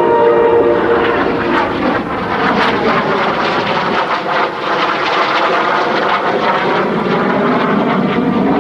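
Loud, steady jet engine noise of a military jet flying past in the Heritage Flight display (F-15 Eagle and/or F-86 Sabre). Background music fades out in the first moment.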